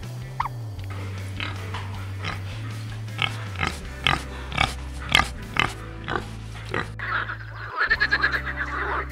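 Domestic pigs grunting and squealing, short calls about two a second, over low sustained background music. Near the end the pig calls stop and a dense chorus of frog calls begins.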